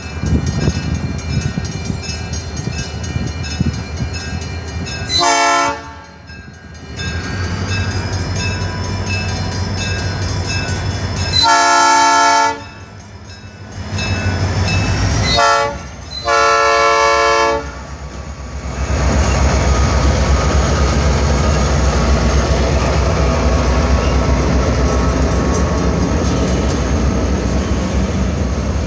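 Grade-crossing warning bell ringing while an approaching CN diesel freight locomotive sounds its air horn four times, the third blast short and the last the longest. The locomotive and freight cars then come through the crossing in a steady heavy rumble with clattering wheels.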